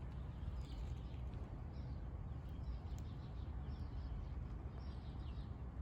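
A small bird chirping over and over, short high calls about one or two a second, over a steady low rumble.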